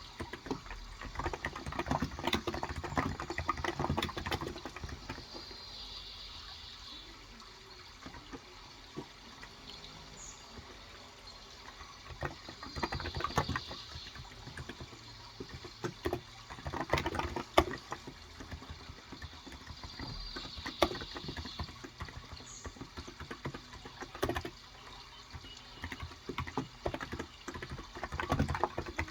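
Typing on a Cox Endeavour 35 g electrostatic-capacitive (contactless) tenkeyless keyboard: bursts of key clicks with short pauses between them. Underneath is a steady sound of running water, and a short burst of bird chirping comes three times, about seven seconds apart.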